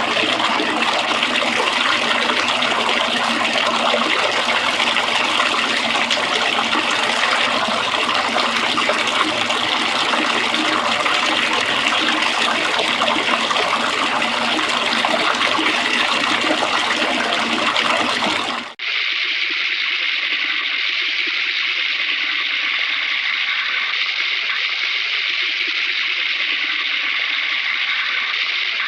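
Hanna-Barbera library sound effect of steady rushing, running water. About 18 seconds in it cuts abruptly to a second, duller running-water effect that lacks the top hiss.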